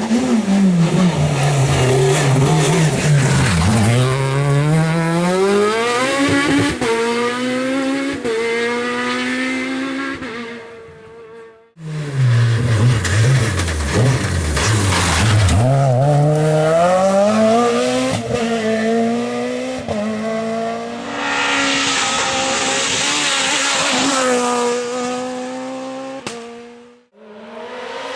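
Rally car engines at full effort, one car per clip. Each car's engine note falls as it brakes and downshifts for a corner, then climbs again in steps as it accelerates away up through the gears. The sound cuts off abruptly twice, once about twelve seconds in and once near the end, and a new car begins after each cut.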